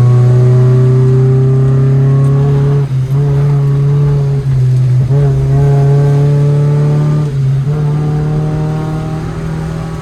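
Car engine running under load, heard from inside the car, its pitch slowly climbing, with brief drops in level about three seconds in, around five seconds and just past seven seconds.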